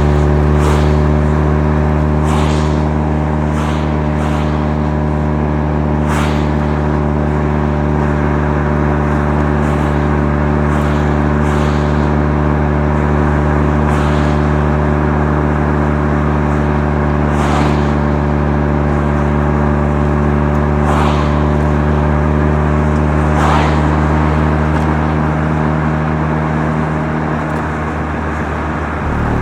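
Mazda FC3S Savanna RX-7's 13B twin-rotor turbo rotary engine, heard from inside the car through its Knight Sports Legal Sports aftermarket muffler, cruising at a steady engine speed with a constant-pitch drone. Short sharp clicks come at irregular intervals over it, and the engine note drops and changes just before the end.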